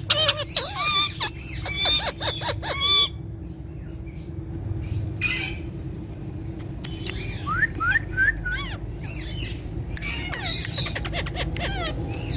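Ringneck parrots calling: squawks and sharply swooping calls for the first three seconds, a short lull, then a quick run of short rising chirps from about seven seconds in.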